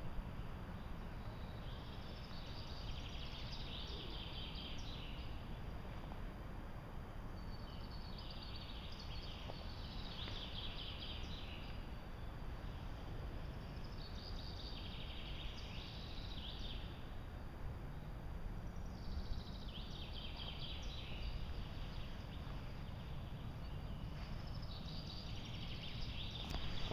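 Outdoor ambience with a steady low rumble. A bird sings a short high-pitched phrase of about two to three seconds, repeated roughly every five to six seconds, five times in all.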